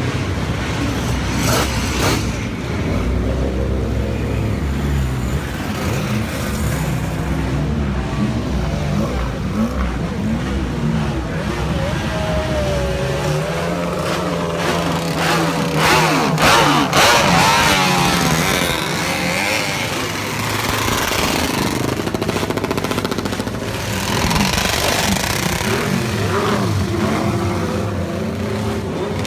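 Motorcycle engine revving over and over, its pitch rising and falling, with the loudest revving about two-thirds of the way through.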